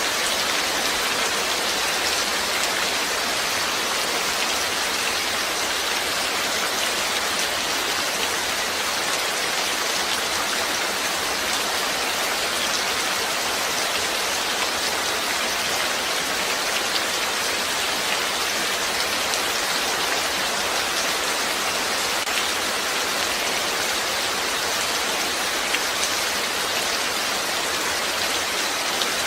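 Steady rain falling, an even hiss with the fine patter of drops hitting a surface.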